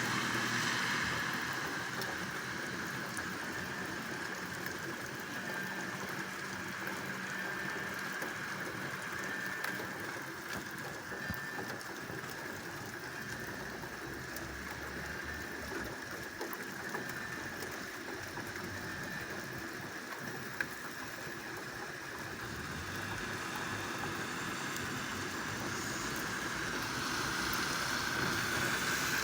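Light rain falling steadily, with a few sharp ticks of drops. A rushing noise swells again near the end.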